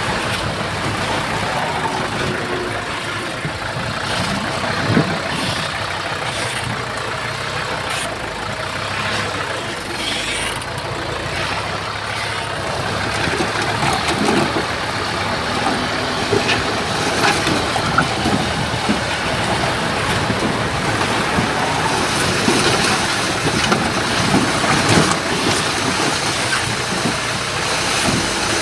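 Diesel engines of heavy earthmoving machinery, a bulldozer and dump trucks, running steadily, with occasional short knocks and clanks scattered through.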